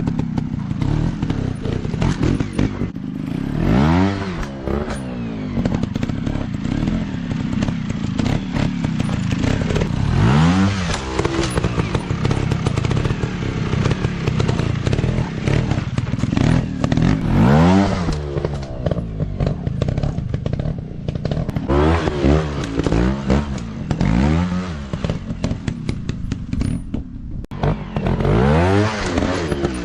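Dirt bike engines running and revving hard, the pitch sweeping up and falling back about seven times, with many short knocks and clatter throughout.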